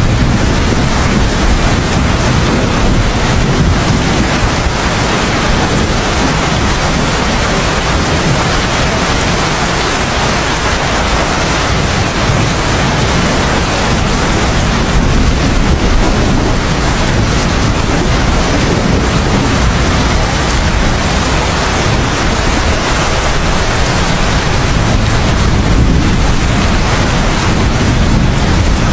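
Heavy steady rain with a deep rumble underneath that swells and eases slowly, like distant rolling thunder, with no sharp thunderclap.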